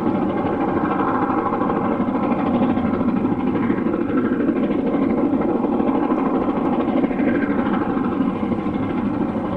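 LMS Black 5 4-6-0 steam locomotive No. 44767 working a train, a steady, dense running and exhaust noise with no break.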